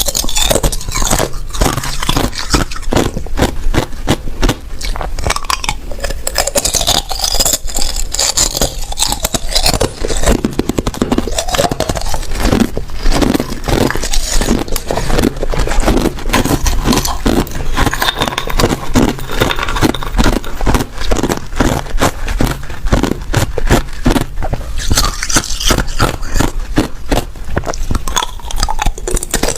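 Ice being bitten and chewed close to the microphone: a continuous, loud run of sharp crunches and crackles.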